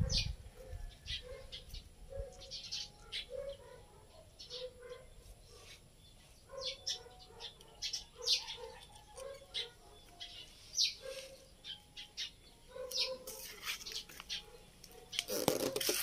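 Small birds chirping: short high chirps scattered throughout, over a lower note repeated steadily about one and a half times a second. A brief louder noise comes near the end.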